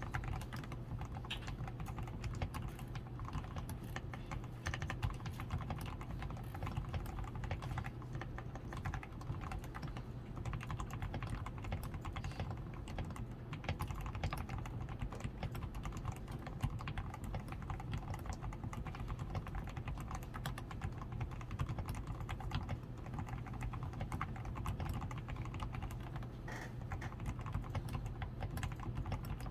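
Continuous typing on a DAREU A87 Pro mechanical keyboard, fully lubed with Krytox 105, with lubed stabilizers, a PCB tape mod, switch foam and XDA keycaps: a dense, unbroken stream of keystrokes.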